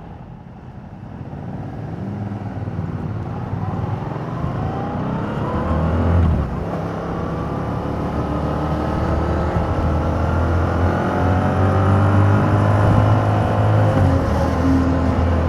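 2021 Yamaha MT-07's 689 cc parallel-twin engine through its stock exhaust, accelerating with its pitch rising; about six seconds in the pitch drops once at a gear change and then climbs again more slowly as the bike pulls on.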